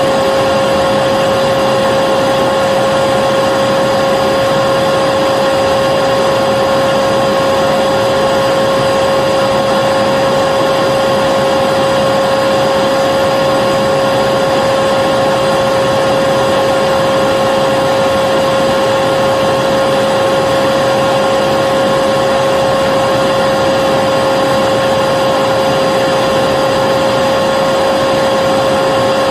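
Vacuum cleaner running steadily, a loud, unchanging motor whine over the rush of air.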